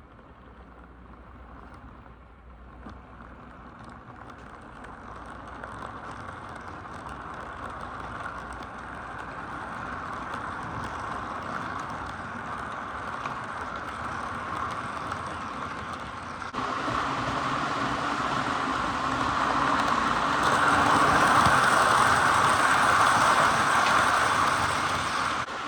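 Model Norfolk Southern diesel locomotive running on the layout track, a steady motor-and-wheel running sound that grows louder as it approaches, peaks about four-fifths of the way in, then drops off suddenly near the end.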